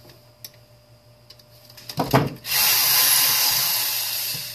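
A knock, then a power drill running for about two seconds and fading near the end, used to take apart a space heater.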